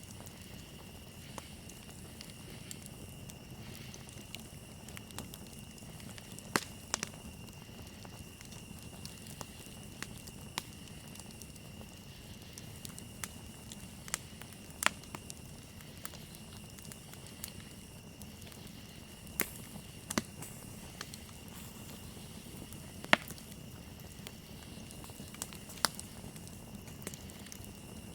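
Campfire crackling, with irregular sharp pops (a few much louder than the rest) over a soft low rush of the burning wood. Behind it is a steady, high-pitched trill of crickets.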